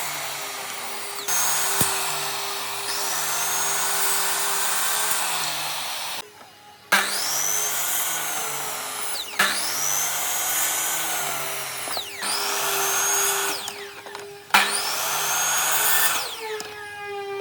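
A handheld electric power tool working wood. Its motor whine repeatedly sags under load and recovers, and it stops briefly several times, first about six seconds in.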